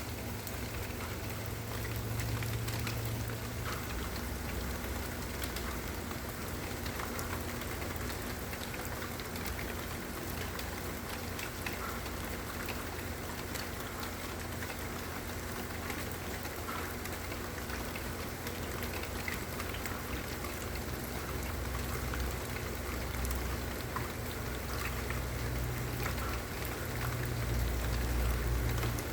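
Steady rain falling, with scattered drop ticks over an even hiss. A low rumble sits beneath it and swells near the end.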